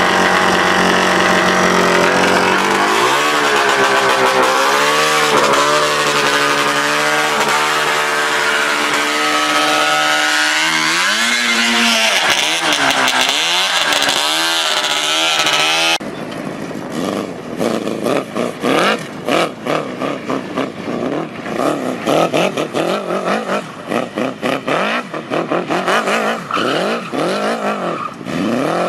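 A go-kart's motorcycle engine revving hard, its pitch climbing, wavering and blipping up and down. About halfway through, the sound switches abruptly to a choppier engine note that rises and falls quickly, like a kart being driven on and off the throttle.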